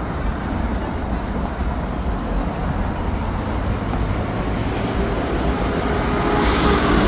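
Steady city street noise with a low traffic rumble, growing louder near the end.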